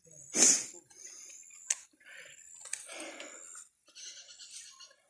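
A cast net hits the pond surface with a short splash about half a second in. Fainter splashing and handling noises follow, with one sharp click.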